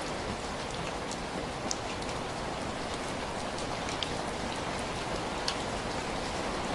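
Steady rain falling, an even hiss with a few scattered sharp ticks.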